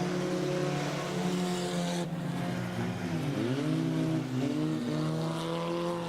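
Several junk race cars' engines running at racing speed in a pack. About three seconds in, one engine's pitch dips as it comes off the throttle, then climbs again as it accelerates.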